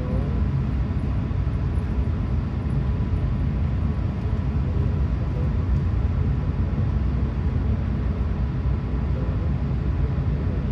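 Steady low rumble of engine and air noise inside the cabin of an Airbus A380-800 with Rolls-Royce Trent 900 engines, with a faint steady whine above it.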